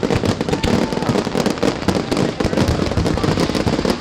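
Fireworks and firecrackers going off, many sharp bangs and cracks in quick, overlapping succession with no pause.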